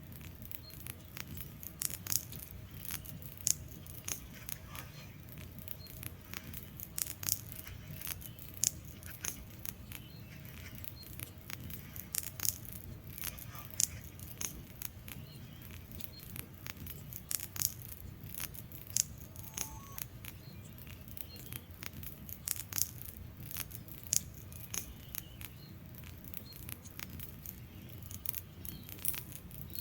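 Wood fire crackling in a fireplace: irregular sharp pops and snaps from the burning logs, several a second with an occasional louder one, over a low steady rumble of the flames.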